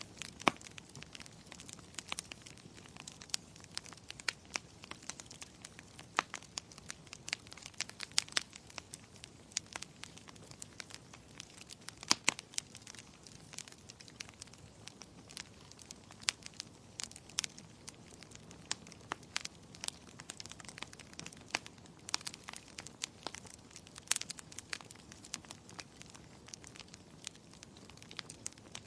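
Wood fire in a fireplace crackling: irregular sharp pops and snaps from burning firewood over a faint hiss, a few louder pops standing out.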